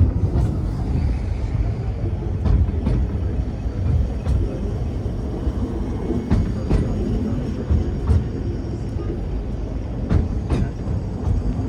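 Great Orme Tramway cable-hauled tramcar running on its rails: a steady low rumble with sharp clicks every second or two.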